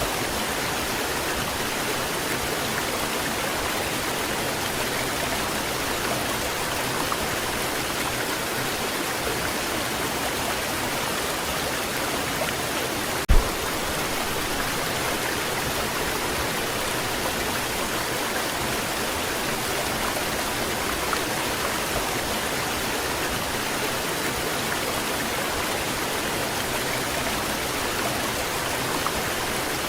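Waterfall: a steady, even rush of falling water. A single low thump about halfway through.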